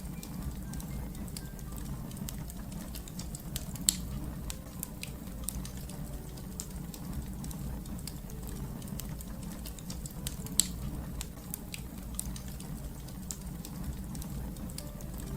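Fire crackling: a steady low rumble of burning with irregular sharp pops and snaps, two louder pops about four and ten and a half seconds in.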